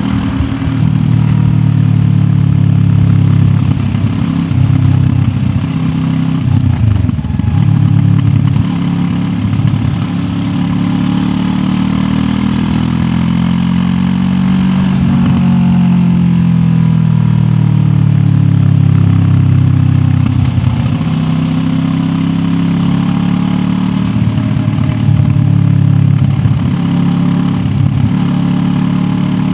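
QJ Motor SRT 700X motorcycle's parallel-twin engine running under way, its pitch rising and falling with the throttle, with several brief dips as the revs drop, around 7, 10 and 20 seconds in. Heard from a recorder carried in the rider's backpack.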